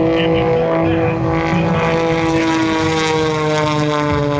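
Breitling CAP 232 aerobatic plane's six-cylinder Lycoming engine and propeller droning overhead, its pitch sliding slowly down.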